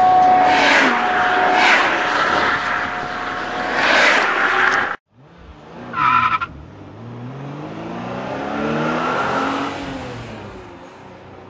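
Car tyres squealing and skidding for about five seconds, then a sudden cut. After a brief high squeal, a sports car's engine accelerates past, its pitch rising and then falling away.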